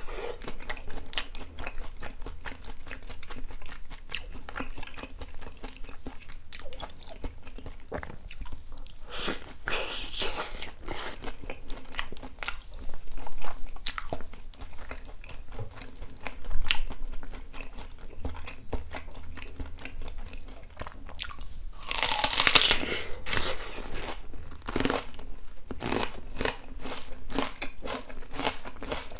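Close-up crunching and chewing of crispy batter-fried chicken and oysters: sharp crackly bites, getting quicker near the end.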